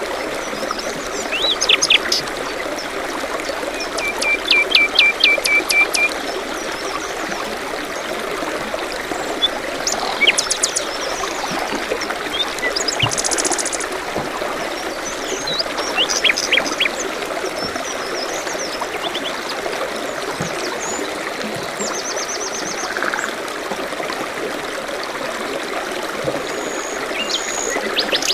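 Steady trickle of a forest stream, with songbirds calling and chirping intermittently over it: a quick run of repeated notes, a high buzzy trill and scattered single chirps.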